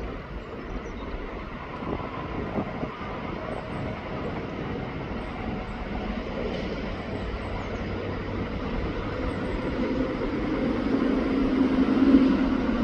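A steady engine drone growing louder as it approaches, with faint high chirps of small birds above it.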